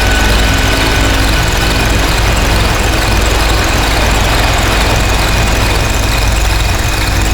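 Harsh noise drone from synthesizers run through distortion pedals: a loud, dense wall of distorted noise over a deep low drone, with thin steady high tones running through it. One high tone drops out about two seconds in.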